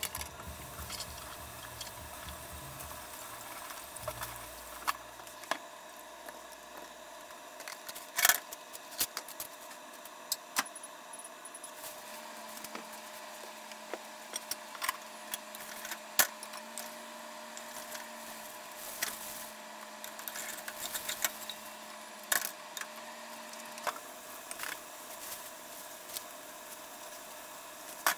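Shredded-potato galettes frying in oil in a frying pan: a steady soft sizzle with scattered sharp pops and clicks, some from bowls and utensils being handled.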